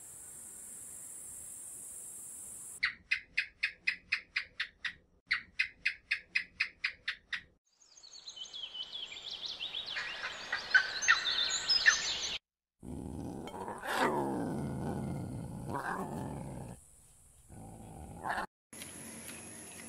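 A string of different animal calls, cut one after another: a faint high hiss, two runs of quick chirps about four a second, a rising scratchy chatter, then a deep roar-like call with wavering pitch.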